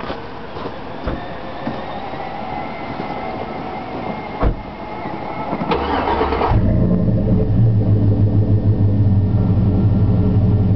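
A 2004 Chevy Avalanche's V8 is started through a Flowmaster Super 40 muffler and dual exhaust: a few clicks and noise at first, a short crank about six seconds in, then the engine catches and settles into a loud, steady, deep idle.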